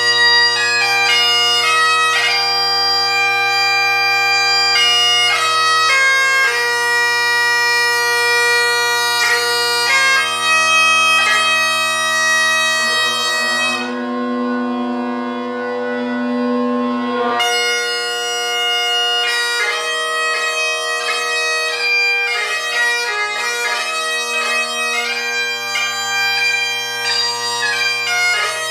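Great Highland bagpipes in Royal Mexican Ebony with Ezee drone reeds, a blackwood chanter and a sheepskin bag, played in full. The drones hold a steady chord under a chanter tune full of quick grace notes, with one long held note about halfway through.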